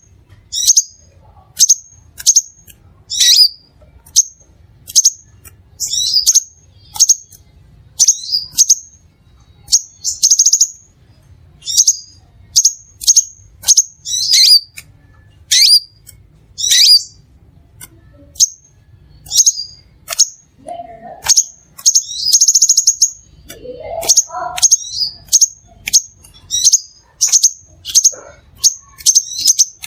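Crimson sunbird calling: a quick run of sharp, high chirps, about two a second, broken by a short buzzy trill a little after 10 seconds in and again around 22 seconds. A few lower, rising notes come in around 21 and 24 seconds.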